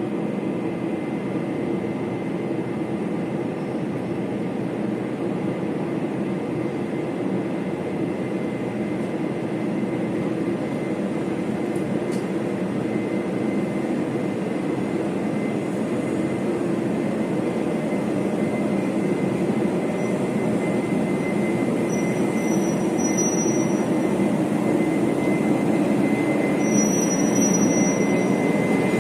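Locomotive-hauled Chu-Kuang Express passenger train running on the rails, a steady rumble that slowly grows louder, with a thin steady whine through it and a few short high squeaks near the end.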